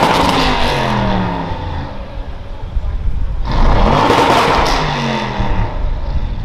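Audi RS7's twin-turbo 4.0-litre V8 exhaust revving, its pitch falling away, then an abrupt switch about three and a half seconds in to another burst of revs that rises and falls.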